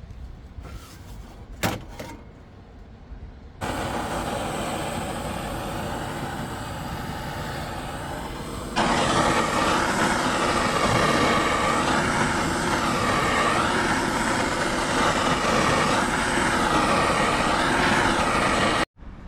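A steady rushing roar of flame in a small wood-burning stove, coming in abruptly and growing louder about nine seconds in, with a wavering whistle over it. A few clicks come before it.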